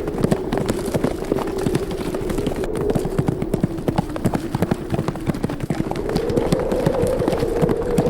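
Hooves of a herd of horses galloping, many hoofbeats overlapping, over wind howling at a steady, slowly wavering pitch.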